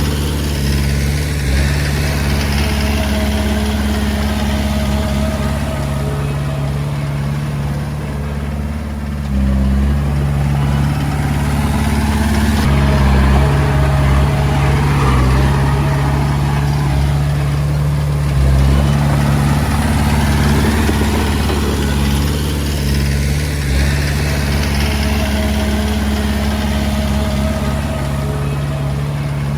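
Komatsu D20A bulldozer's diesel engine running steadily as the machine works, a continuous low drone whose pitch and load shift about nine seconds in and again around eighteen seconds, with a thin whine coming and going above it.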